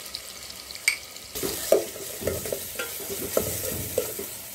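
Steel ladle stirring and scraping through spices and onion-tomato masala frying in oil in a stainless steel pot. The oil sizzles, louder from about a second and a half in, with repeated scrapes of the ladle against the pot.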